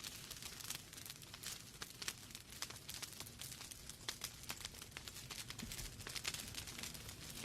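Wood fire burning in a fireplace: logs crackling with many small, irregular snaps over a soft steady hiss and low rumble.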